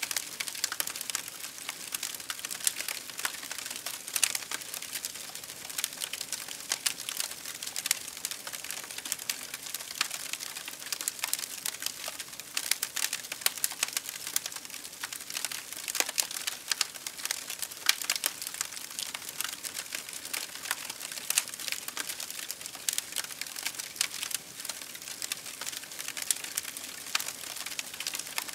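Wood campfire crackling and popping: a dense, irregular stream of sharp snaps over a soft steady hiss of burning.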